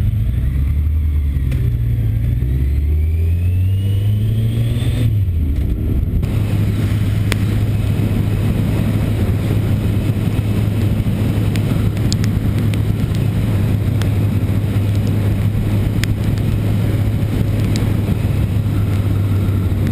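Motorcycle engine under way, its pitch climbing over the first few seconds, then dropping about five seconds in, then running steadily at cruising speed under road and wind noise.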